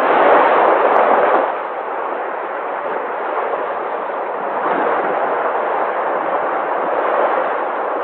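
Sea waves washing in, a continuous rush of surf that swells louder over the first second and a half, then settles into a steady roar.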